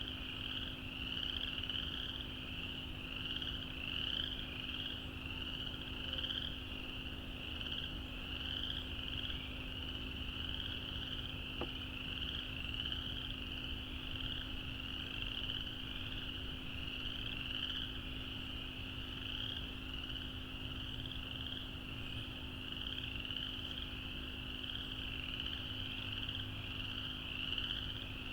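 A dense chorus of frogs calling continuously, many high, quickly repeated calls overlapping into one steady sound.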